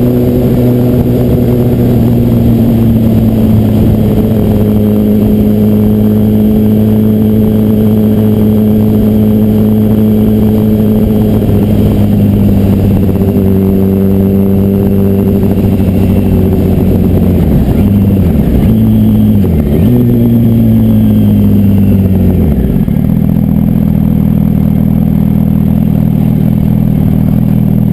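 Yamaha R1 inline-four motorcycle engine heard from the rider's seat, cruising at a steady pitch with small steps between gears. Its pitch then drops and climbs back twice as the bike downshifts and slows, and it settles to a low idle about three-quarters of the way through.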